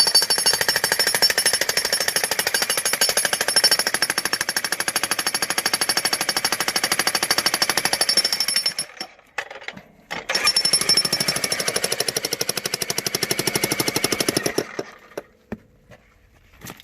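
Bosch jackhammer hammering on a geode rock in two long runs, a rapid even pounding that stops for about a second near the middle and cuts off a couple of seconds before the end.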